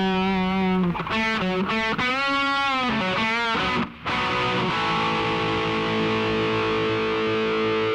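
Guitar music: a few bending, wavering notes, a brief break just before four seconds in, then one long held chord.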